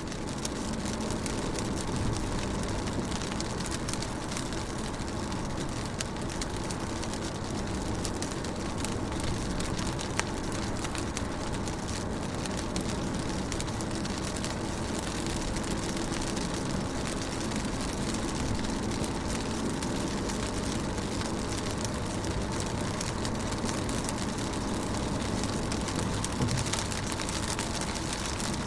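Rain falling on a car's window, heard from inside the car: a steady hiss of many small drop ticks over a low, even hum.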